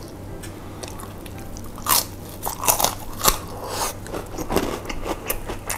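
Close-miked crunching of a crisp fried piece of food being bitten and chewed: a run of loud, crackly crunches starting about two seconds in.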